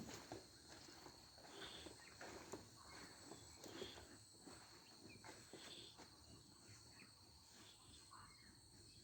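Near silence: faint outdoor ambience with a steady thin high insect tone and soft scattered footsteps, fading out over the first few seconds.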